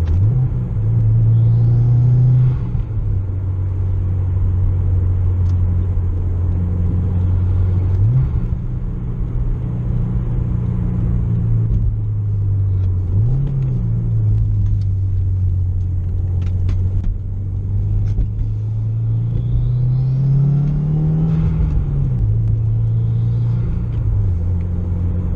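Turbocharged Subaru WRX flat-four engine pulling hard through the gears. The engine note climbs and drops back at each shift, several times. Faint intake whoosh from the Cobb Big SF intake rises with it.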